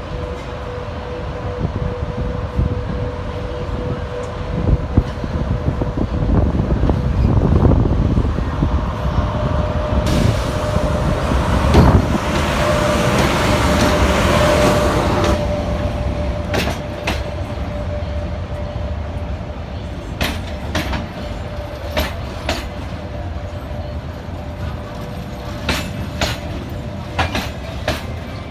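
ЭП1М electric locomotive and its passenger train going by: a rumble that swells and fades with a steady whine, a loud rushing hiss for about five seconds midway, then the wagons' wheels clicking over rail joints in irregular sharp clicks.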